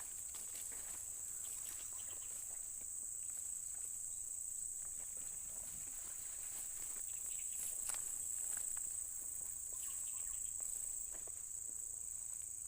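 A steady, high-pitched insect chorus drones without a break, with faint scattered rustles and ticks underneath.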